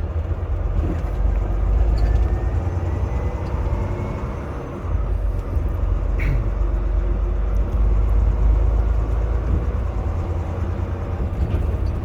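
Semi truck driving on the highway: a steady low engine and road rumble, with a brief dip in level about five seconds in.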